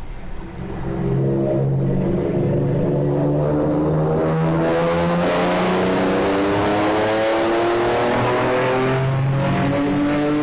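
Honda NSX V6 through a Taitec JGTC parallel-exit exhaust, accelerating hard, echoing in a tunnel. It gets loud about a second in and climbs steadily in pitch for several seconds, with a short drop in pitch near the end, as at an upshift.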